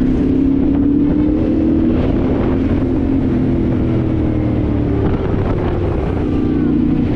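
Dirt bike engine running steadily at cruising speed, its pitch wavering slightly, with wind noise on the microphone.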